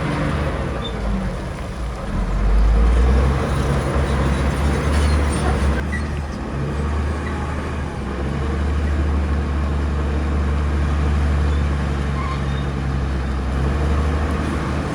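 Heavy diesel engine of earthmoving machinery running steadily, a deep hum that grows louder about two seconds in.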